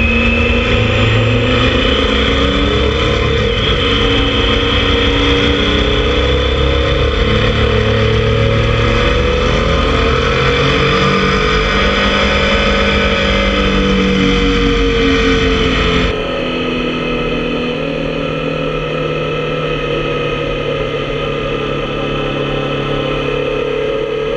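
Motorcycle engine running on the move, its pitch rising and falling with the throttle, under heavy wind rush. About two-thirds of the way through the wind rush drops away suddenly and the engine settles to a steadier, quieter note.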